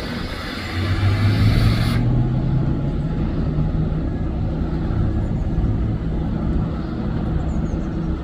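Bus engine running under a low rumble, its note rising about a second in as it pulls away, then holding steady. A hiss cuts off abruptly about two seconds in.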